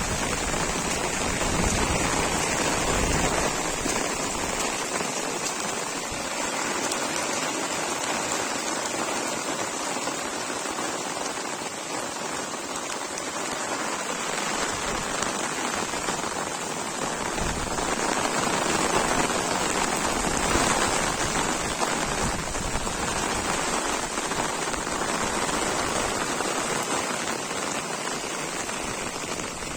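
Heavy rain falling steadily, an even hiss of drops striking surfaces.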